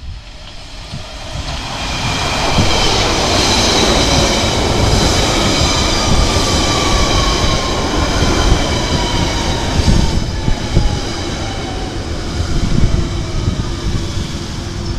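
Central line 1992 Tube Stock train running in along the platform and slowing. It grows loud over the first two seconds. Wheels rumble and click on the rails under high steady squealing tones, while a motor whine falls steadily in pitch as the train slows.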